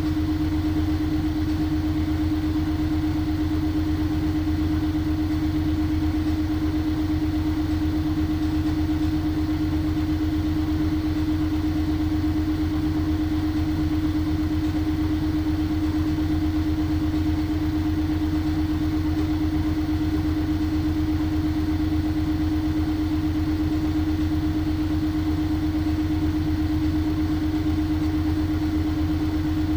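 LG washing machine running steadily: a constant hum with a strong, steady drone and a fast low flutter, unchanging throughout.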